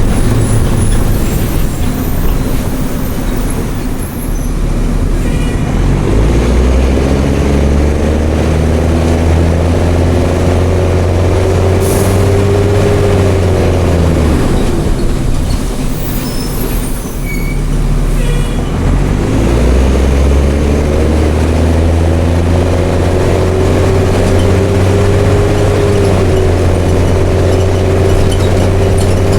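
Mercedes-Benz OM366LA turbo-diesel inline-six of a city bus with an open straight exhaust, pulling under load: the engine note climbs, drops sharply about halfway through, then climbs again and holds steady.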